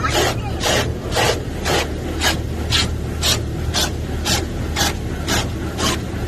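Automatic car wash spraying water onto the car in regular sweeps, about two a second, heard from inside the car, over a steady low hum of the wash machinery.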